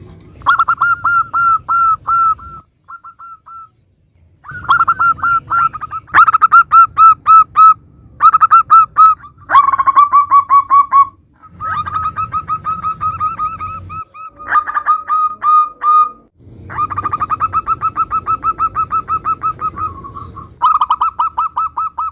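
Zebra doves (perkutut) cooing: repeated phrases of rapid, evenly spaced staccato notes, a run of short pauses between them. Some phrases are much louder than others.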